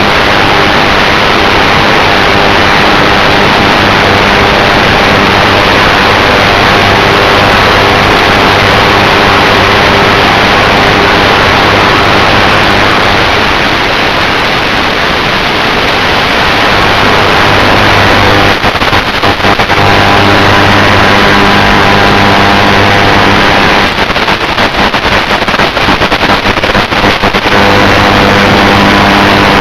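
Electric motors and propellers of an FPV drone running steadily in flight, a steady hum with wind rushing over the microphone. Twice in the second half the sound breaks up into crackling dropouts.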